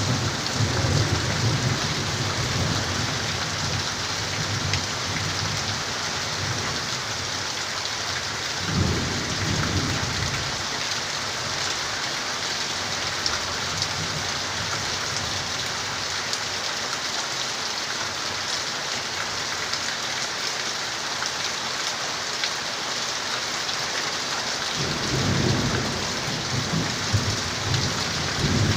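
Steady heavy rain with low rolls of thunder rumbling near the start, about nine seconds in, and again near the end.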